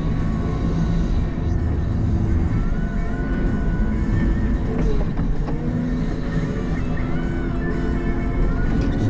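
CAT 906 compact wheel loader's diesel engine running steadily while plowing, with background music over it.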